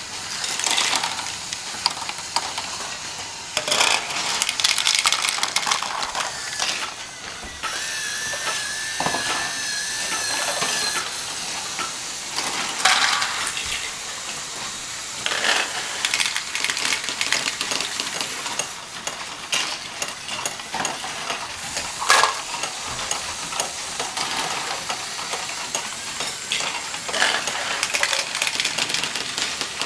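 Irregular clicking and clattering of small hard pieces, with a short warbling electronic-like tone about eight seconds in.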